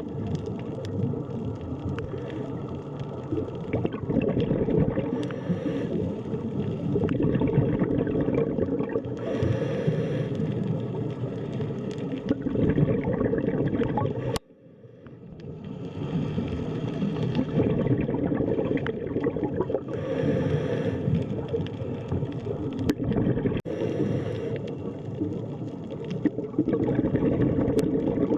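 Underwater ambience: a low, muffled rumble with bubbling and gurgling, and brighter bubbly swells every four or five seconds. About halfway through it cuts out abruptly and fades back in.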